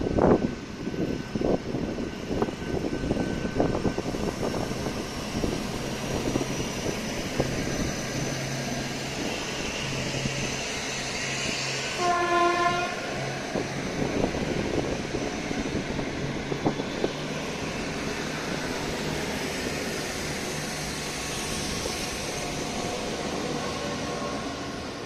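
Regional diesel train passing. Its wheels clatter over the rail joints in the first few seconds and its engine hums steadily throughout. The horn sounds once, for about a second, midway through.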